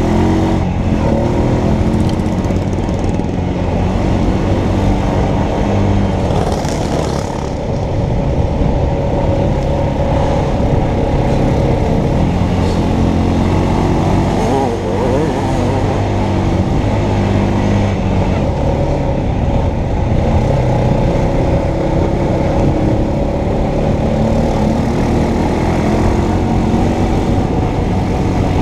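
Honda Foreman Rubicon ATV's single-cylinder engine running under way on a dirt trail, its pitch rising and falling as the throttle is worked.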